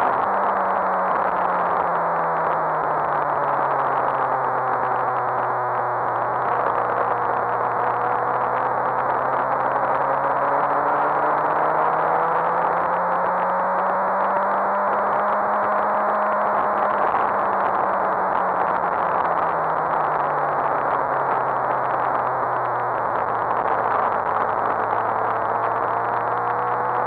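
Suzuki GSX-R1000 K7's inline-four engine running at moderate revs under wind rush on the microphone. Its pitch sinks slowly, climbs again around the middle and sinks once more near the end, with no abrupt gear-change steps.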